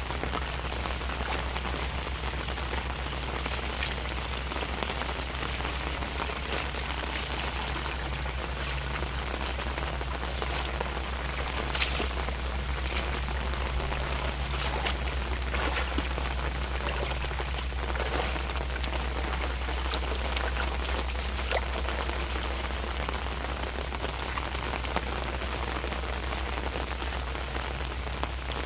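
Steady rain falling, with many scattered individual drops ticking close by, over a constant low rumble.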